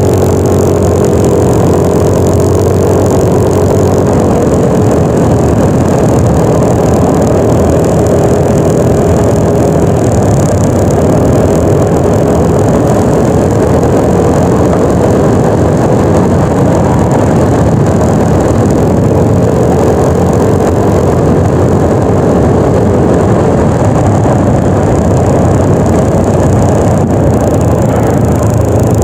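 Yamaha NMAX 155 scooter engine running steadily while riding, its hum holding a fairly even pitch that fades in and out, under a loud, steady rushing noise.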